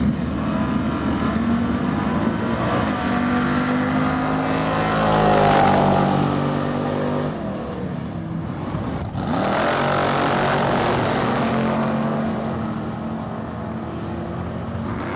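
A 385-cubic-inch Gen 2 LT1 small-block V8 running and being revved, its pitch rising about five seconds in and again about nine seconds in.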